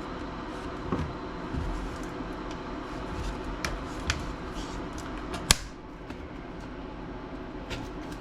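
A laptop's plastic case being handled and pried at: scattered clicks and knocks, with one sharp snap about five and a half seconds in.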